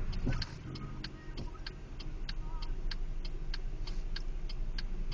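Turn-signal flasher ticking steadily in the cabin of a 1999 Pontiac Grand Am, about four sharp ticks a second, over the low hum of the car's engine.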